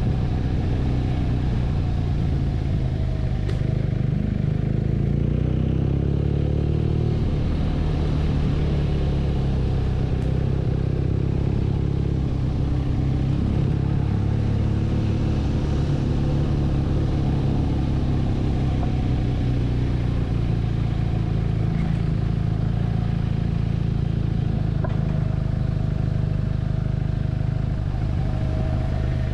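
BMW R nineT's air/oil-cooled 1170 cc boxer twin running as the motorcycle is ridden. It is a steady engine note whose pitch glides gently a few seconds in as the revs change.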